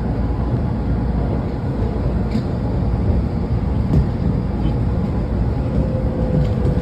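Washington Metro train running, a steady low rumble of wheels and motors heard from inside the car, with a couple of faint clicks.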